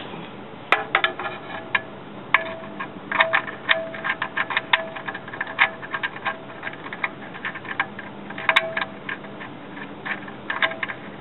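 Irregular runs of sharp metallic clicks and ticks, some with a short ring, from metal parts and tools handled as the drain plug goes back into the oil pan.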